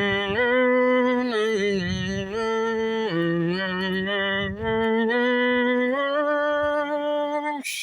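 A single voice humming a slow closing tune in long held notes that step up and down in pitch, ending abruptly near the end.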